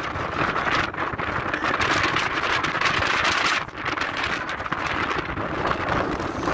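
Strong gusting wind buffeting the microphone: a loud, rushing noise that dips briefly about halfway through.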